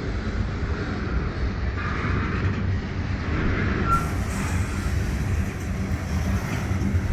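Norfolk Southern freight train rumbling steadily close by, with a short high squeak about four seconds in.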